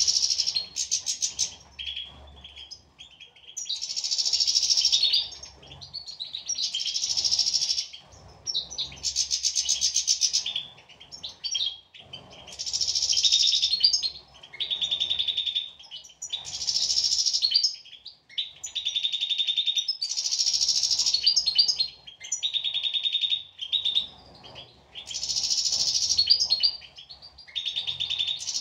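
European goldfinch singing: rapid, twittering trilled phrases of a second or two each, repeated every few seconds.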